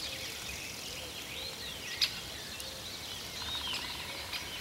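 Small birds chirping over a steady outdoor background, with one sharp click about two seconds in.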